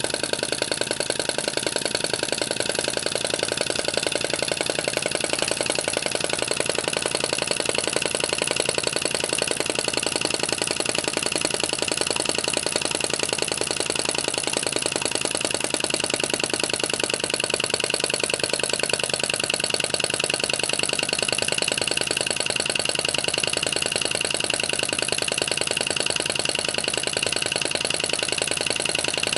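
Bengs flame licker (vacuum) model engine running steadily with a fast, even clatter.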